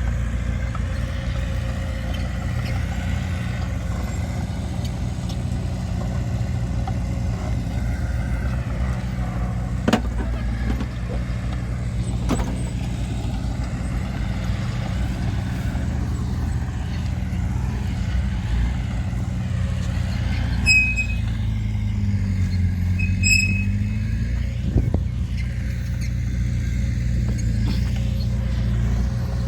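Heavy diesel earthmoving machinery running steadily, with a few sharp metallic knocks. Brief high squeaks come about two-thirds of the way in, while the engine note dips and recovers.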